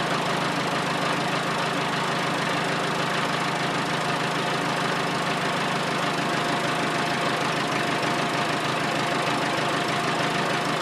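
Massey Ferguson 50HX backhoe loader's diesel engine running steadily at an even speed.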